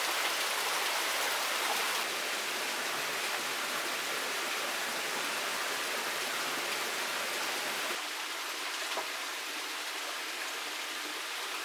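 Steady water noise, a continuous even hiss that steps down slightly in level about two seconds in and again about eight seconds in, with a faint tick near nine seconds.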